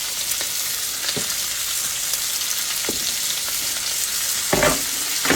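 Sliced onion and green bell pepper sizzling steadily in butter and olive oil in a cast iron skillet on low heat, with a few short knocks, the loudest near the end.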